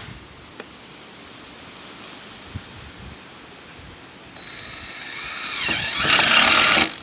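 Power screw gun driving a screw into the metal roof panel beside a rib. It starts about four and a half seconds in, builds for over a second, runs loudest for about a second near the end and stops suddenly. Before that there are only two light ticks over a low background.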